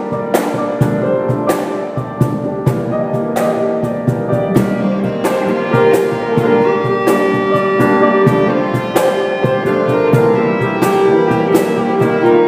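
A band playing an instrumental passage: a drum kit with cymbal hits about once a second over sustained chords.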